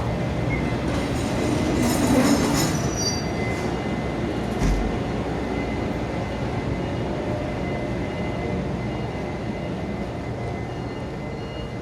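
Train running on the rails with a steady rumble. Its wheels squeal briefly about two to three seconds in, there is a single thump near five seconds, and then the rumble slowly eases off.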